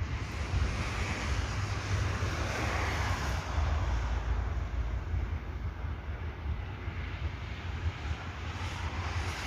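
Wind buffeting the microphone: a steady, fluttering low rumble under an even rushing hiss.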